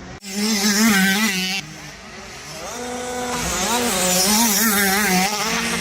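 Motocross bikes racing on the track, their engines revving up and down. The engines are loud for the first second or so, ease off, then build again as more bikes come by.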